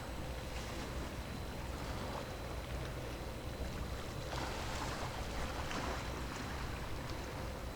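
Steady low rumble of a large ship under way, with an even hiss of wind and water over it.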